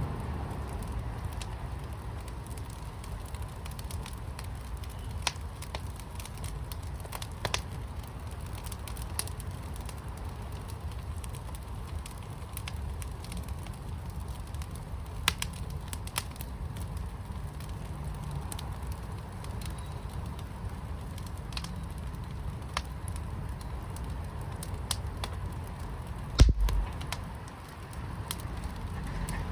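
Fire burning in a fire pit, with a steady low rumble and scattered sharp crackles and pops. A single loud low thump comes near the end.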